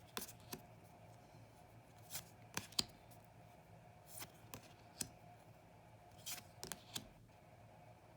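Oracle cards handled one at a time as the deck is looked through: about ten light, scattered clicks and brief slides of card against card.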